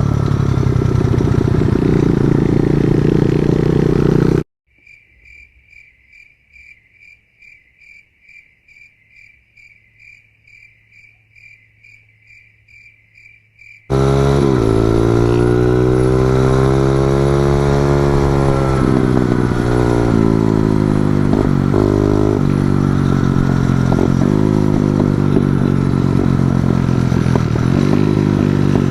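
Pit bike engine running, then an abrupt drop about four seconds in to a quiet stretch of insects chirping steadily at about two chirps a second. Near the middle, loud engine sound returns, its revs rising and falling as the pit bike is ridden.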